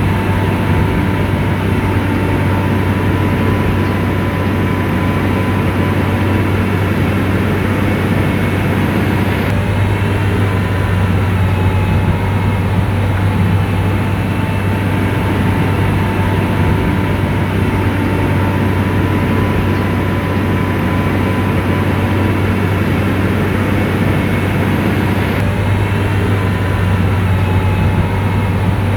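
Komatsu bulldozer's diesel engine running steadily under work, a constant low hum with a faint higher whine above it, shifting slightly twice.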